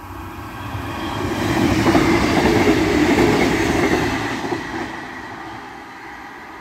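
Northern diesel multiple unit passing over a level crossing, its wheels clattering on the rails. It swells to a peak about two seconds in and fades over the last couple of seconds as the last carriage clears.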